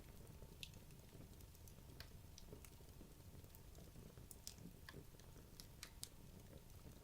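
Wood logs burning in a fireplace: faint, scattered crackles and pops at irregular intervals over a low, steady rumble of the fire.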